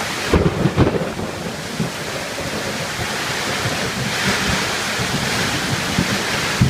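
Heavy storm rain and gusting wind in a steady loud rush, with wind buffeting the microphone in a few low thumps about half a second in.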